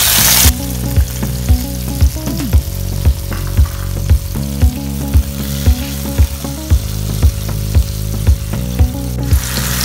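Diced tomatoes sizzling loudly as they hit hot oil in a nonstick pan, settling after about half a second into a steady frying sizzle as they are stirred with a wooden spatula. Background music with a steady beat, about two a second, runs underneath.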